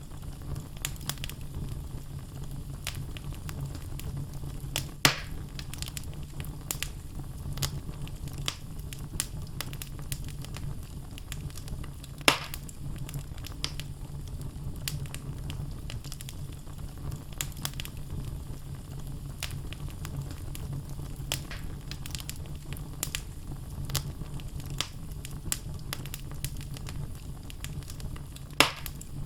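Wood logs burning in a fireplace: a steady low rush of flame with frequent small crackles. There are louder pops about five seconds in, about twelve seconds in, and near the end.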